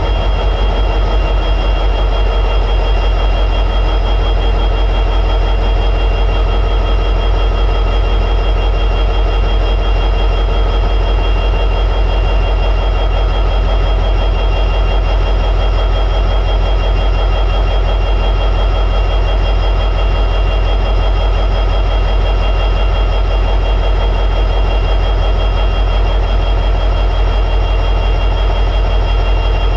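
EMD 710G3B two-stroke diesel prime mover of an SD60E locomotive running at high idle: a steady, even low throb with thin steady high tones above it.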